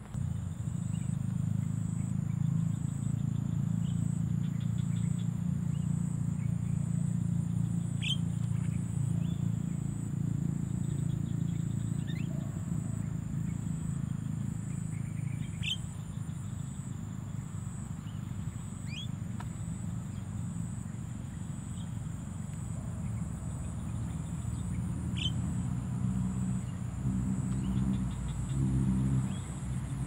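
A steady low drone, with about five short, sharp rising bird chirps scattered over it and a faint high pulsing whine.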